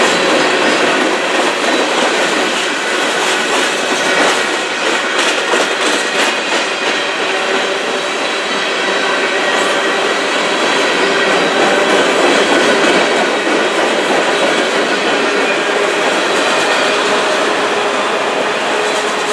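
Freight train cars, mostly covered hoppers, rolling past close by: a steady loud rumble and rattle of steel wheels on rail, with a run of wheel clicks over rail joints about four to six seconds in.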